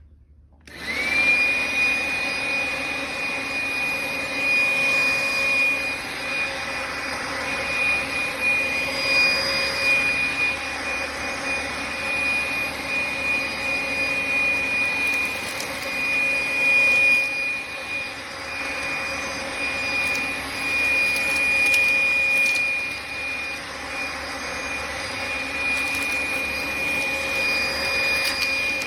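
Makita XLC02ZW 18V cordless compact vacuum switching on about a second in, its motor whine rising quickly to a steady high pitch, then running continuously. It is sucking up dog hair and flaxseed chips from the floor, and its loudness swells and dips as it is moved.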